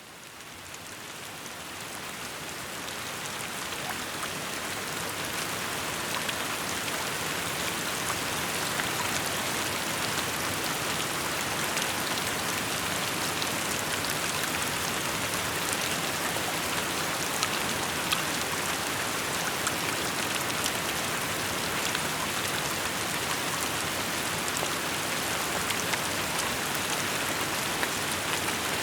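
Steady rainfall: a dense hiss of falling rain with many small individual drop ticks, fading in over the first several seconds and then holding even.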